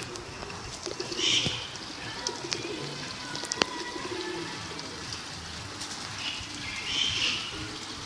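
Birds calling: low pitched calls go on throughout, with short higher chirps about a second in and again about seven seconds in, and a few light clicks.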